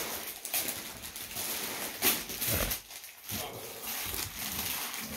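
Gift wrapping paper rustling and tearing in uneven bursts, with a sharper rip about two seconds in.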